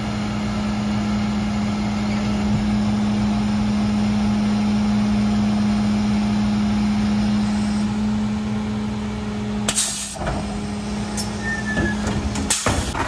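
Mercedes-Benz Econic refuse truck running, with a steady hum, then short bursts of air hissing about ten seconds in and again near the end.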